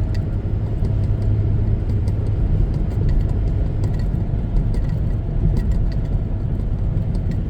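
A car driving, with a steady low rumble of engine and road noise and a few faint ticks scattered through it.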